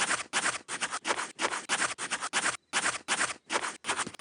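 Rapid, even scratching strokes, about five a second. They break off just before the end.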